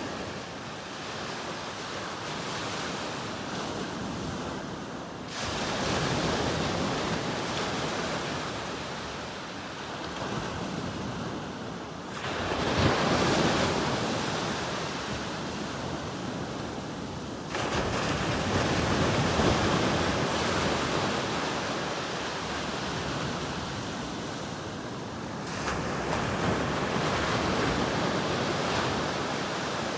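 Sea waves breaking on the shore: a steady wash of surf with a fresh wave surging in four times, every five to eight seconds, each starting suddenly and easing off over several seconds.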